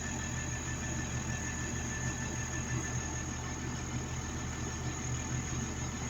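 Engine running steadily at idle, a low even drone with a thin high whine over it.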